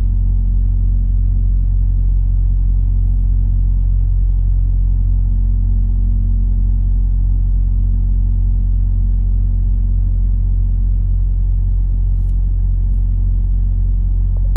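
Semi truck's diesel engine running at a steady speed, an even low drone with no change in pitch.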